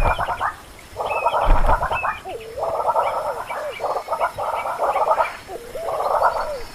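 Repeated rasping, croak-like animal calls, each about a second long with short breaks between them.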